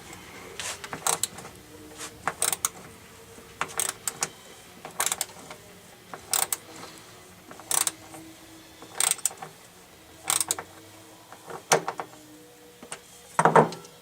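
Sharp metallic clicks in short clusters, repeating about once every second and a third, from a hand tool working a fastener loose on a Rock-ola 443 jukebox's carousel gripper mechanism. The loudest cluster comes near the end.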